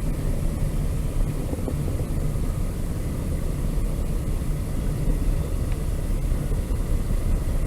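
Steady low vehicle rumble, even throughout, with no distinct clanks or rhythm.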